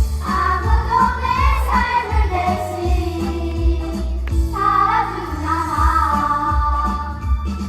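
A group of children singing a song together over a recorded accompaniment with a steady beat, in two sung phrases with a short break about halfway through.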